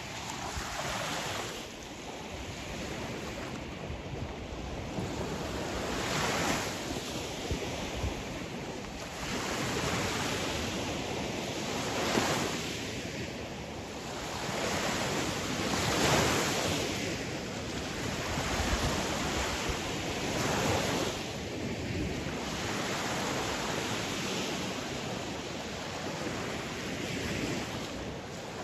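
Sea waves breaking and washing on a shore, the surf swelling and falling back every few seconds, with a steady rush of wind.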